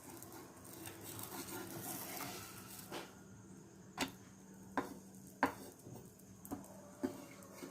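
Metal utensils clinking and tapping against a pan: about six sharp knocks, irregularly spaced roughly a second apart after a few seconds of soft handling noise.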